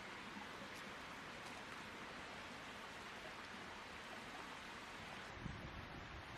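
Steady background hiss, with a soft low rumble coming in about five seconds in.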